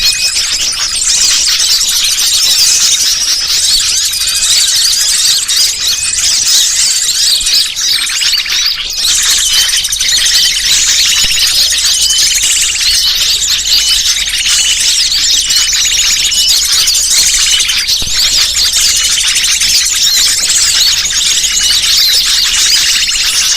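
Loud, dense, unbroken chorus of many small birds chirping and trilling, from a bird-lure (pikat) call recording played to draw wild birds in.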